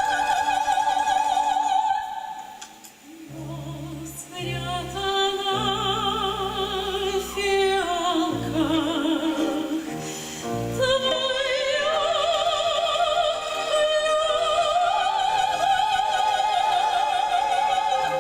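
Operatic singing with wide vibrato on long held notes, over classical orchestral accompaniment; it dips quieter briefly a few seconds in.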